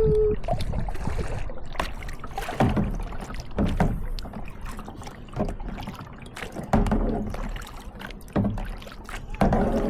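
Kayak paddle strokes in the water, one swell of splashing about every second and a half.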